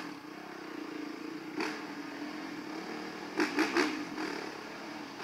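Yamaha WR450F dirt bike's single-cylinder four-stroke engine idling steadily. There is one short sharp burst about a second and a half in, and three more in quick succession a little past three seconds.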